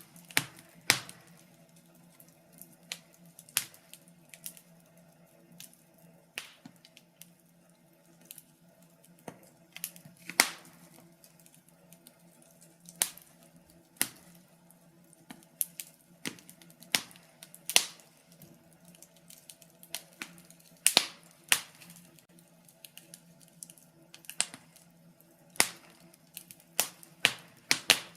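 Burning firewood crackling and popping in a fireplace: sharp irregular pops, some loud and several in quick clusters, over a faint steady hum.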